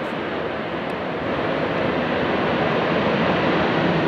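Jet aircraft engine noise, a steady roar that grows gradually louder as the plane passes close by.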